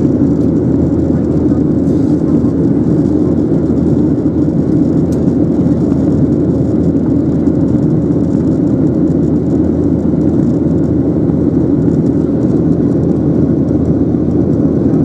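Boeing 737-800 heard from inside the passenger cabin: a steady, even noise of the jet engines and airflow, with no change in pitch or level.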